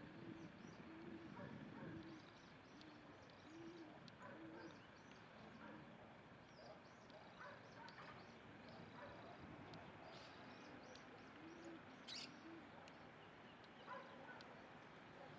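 Doves cooing faintly: short low coos repeated in groups throughout, with faint high chirps of small birds over them.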